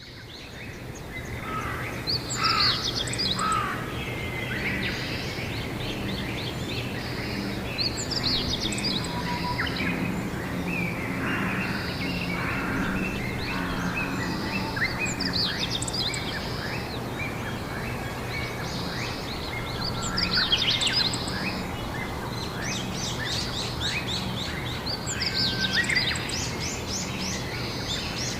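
Songbirds singing outdoors, with a trilled song phrase returning about every six seconds over other chirps. Underneath runs a steady low hum.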